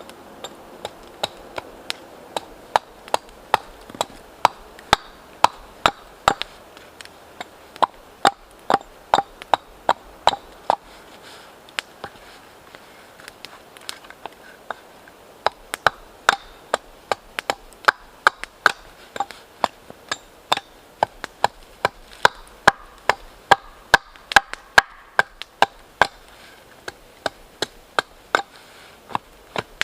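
Wood being chopped with a blade: a long run of sharp, separate strikes, about two a second, with a couple of short pauses.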